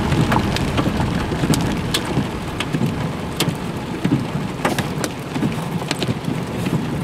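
Rain falling on a car's windshield and roof, heard from inside the cabin: a steady hiss with scattered sharp ticks of drops hitting the glass, over a low rumble.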